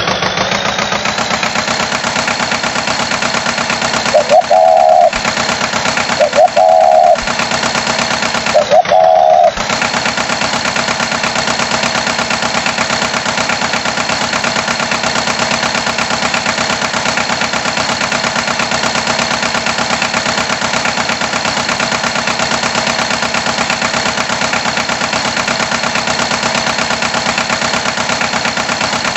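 Farm tractor engine sound effect, rising in pitch just at the start and then running steadily with a fast chugging beat. Between about four and nine seconds in, three short, loud beeps cut in, a couple of seconds apart.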